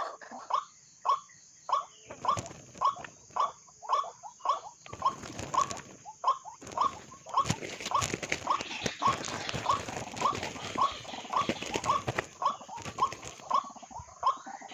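White-breasted waterhen calling, a long run of short, rising notes repeated about two to three times a second. A rustling noise comes and goes under the calls.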